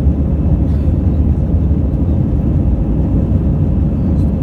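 Airbus A320 engines and airflow giving a steady, loud low rumble, as heard inside the cabin during the takeoff and climb.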